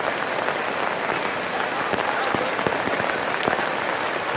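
Heavy rain falling steadily, with many separate drops ticking sharply on nearby surfaces.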